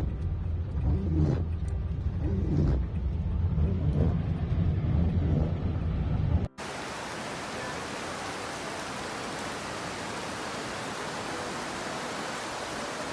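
Low rumbling noise with faint repeated knocks, then a sudden cut about six seconds in to a steady, even hiss of pouring water.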